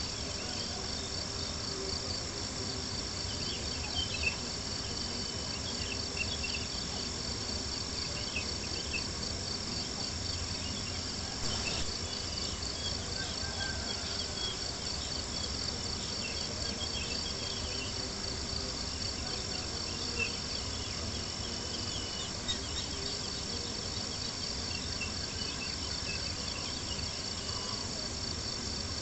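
Crickets chirping in a steady, fast pulsing chorus, with occasional small crackles and pops from a campfire.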